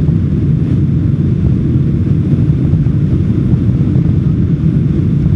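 Boeing 747-400 climbing out after takeoff: a steady low rumble of jet engines and airflow, unchanging throughout.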